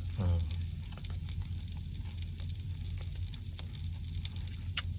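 Beef sizzling in a pan on a stove, with fine crackles over a steady low hum. A short falling voiced "mm" comes just after the start.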